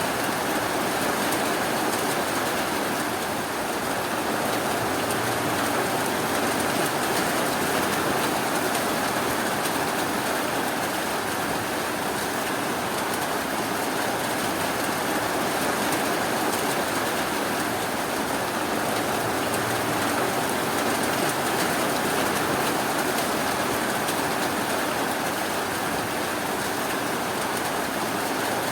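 Steady rain falling: an even, unbroken hiss of rainfall with no thunder or sudden sounds.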